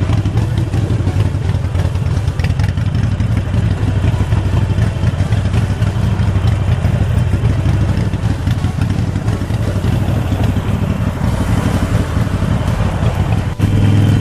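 Harley-Davidson Forty-Eight Sportster's air-cooled 1200 cc V-twin running under way, a loud throbbing note. About thirteen and a half seconds in it breaks off suddenly into a steadier, louder engine tone.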